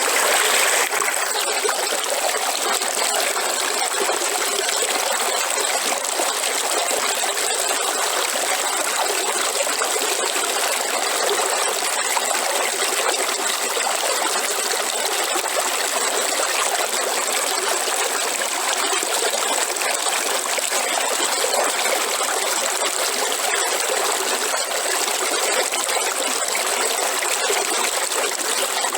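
River water running steadily over rocks, a continuous rushing and trickling with no pauses. A thin, steady high-pitched hiss runs over it.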